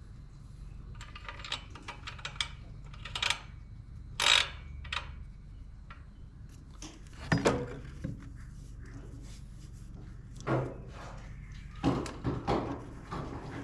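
Irregular clinks, knocks and short scrapes of hand tools and metal parts being worked on a tractor under repair, over a steady low hum.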